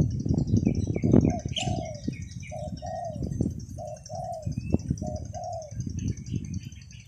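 A dove cooing four times in short two-note phrases, a brief note then a longer one, about a second apart. Heavy wind rumble on the microphone, louder than the calls, runs underneath.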